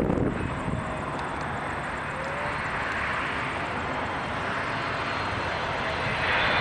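Jet airliner's engines approaching, a steady rushing noise that slowly grows louder.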